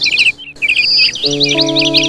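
Songbirds chirping in quick repeated notes, with a held low music chord that drops out at the start and comes back just past halfway. A brief break in all sound just under half a second in.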